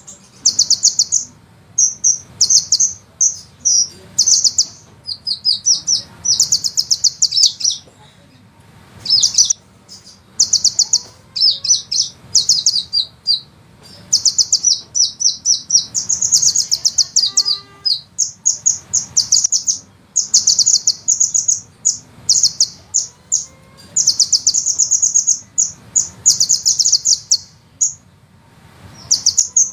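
Sunbird song: high-pitched, rapid trills and runs of quick repeated notes, in bursts of about one to two seconds with short gaps between them.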